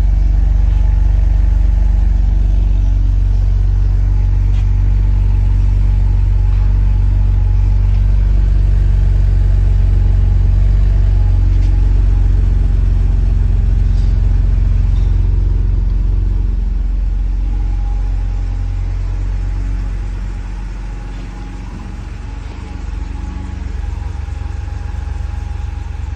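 BMW Z4 2.5's straight-six engine idling steadily after a cold start. Its idle settles lower and quieter about 17 to 21 seconds in, typical of the cold-start fast idle dropping back.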